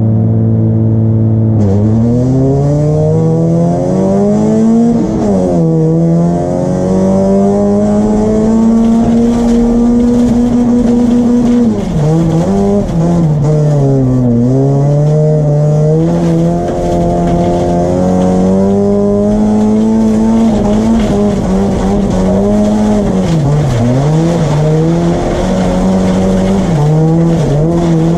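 Folkrace car's engine heard from inside the stripped cabin, holding a steady note, then about two seconds in revving up hard under full throttle. Its pitch climbs and drops again and again as the car is driven flat out through the heat, with deep dips where the throttle comes off.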